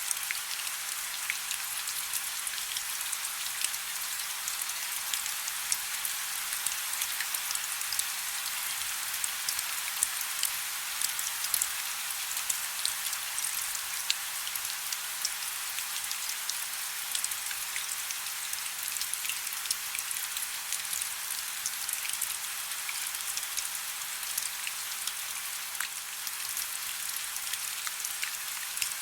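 Soft, steady rain: a continuous hiss full of fine, crackly drop patter, with almost no low rumble.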